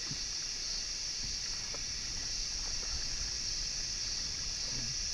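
Steady high-pitched insect chorus, unbroken throughout, over a low rumble with a few faint ticks.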